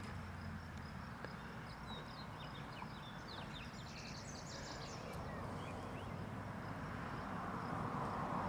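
Quiet outdoor ambience of steady low background noise, with a bird singing a quick run of short, high chirps from about two and a half to five seconds in. The background noise grows slightly louder near the end.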